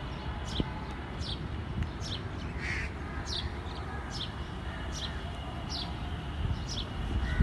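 A bird calling over and over: short, high chirps that slide downward, a couple each second, with one harsher, lower call about two and a half seconds in. A low, steady rumble runs underneath.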